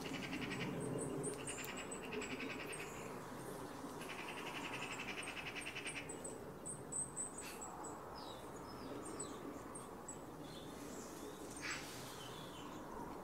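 Small birds calling: repeated short high chirps throughout, with two stretches of a fast buzzy trill in the first half and a few short slurred notes later.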